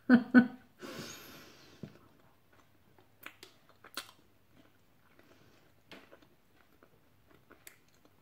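A person chewing a crunchy malt biscuit close to the microphone, with scattered sharp crunches. The loudest sounds come right at the start, as she bites.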